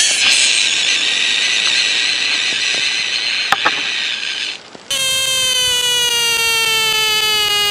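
A steady, harsh hiss-like noise with a few clicks that cuts off after about four and a half seconds. A cat's long, drawn-out yowl then starts abruptly, holding one note that slowly sinks in pitch.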